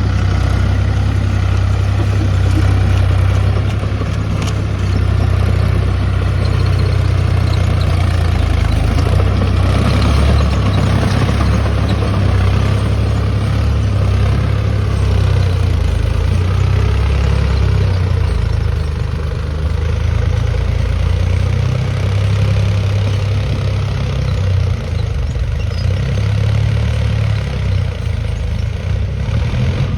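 Mahindra Yuvo Tech+ 405 DI tractor's diesel engine running steadily at low speed, with a deep, even engine note.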